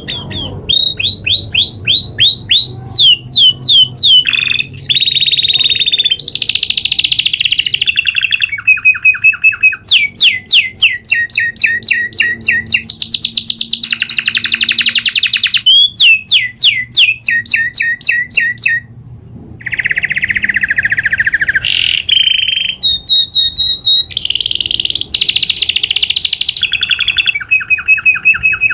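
Domestic canary singing a long rolling song: fast trills and repeated whistled notes, each phrase a different rapid figure, with a brief pause about two-thirds of the way through.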